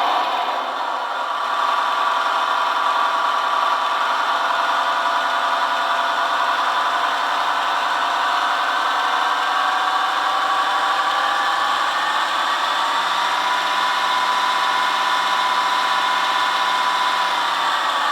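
ESU XL 5 sound decoder in an LGB V 200 model locomotive playing its diesel engine sound through the loco's small loudspeaker. The engine runs steadily, its pitch rises as it revs up about halfway through, and it drops back near the end.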